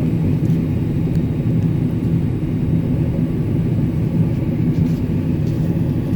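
Combine harvester running steadily, a constant low engine and machinery rumble.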